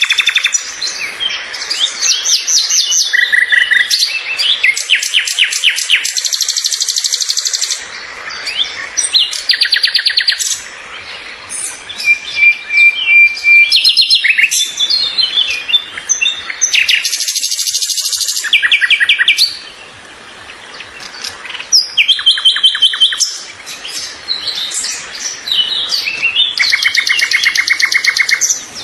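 Several songbirds chirping and singing over one another, with many rapid trills of evenly repeated notes.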